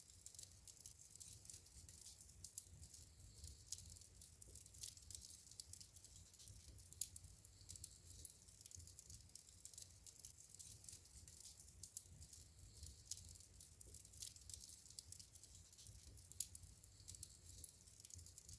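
Wood fire crackling in a fireplace: a quiet, continuous scatter of small snaps and pops over a low steady rumble of the flames, with a few louder pops now and then.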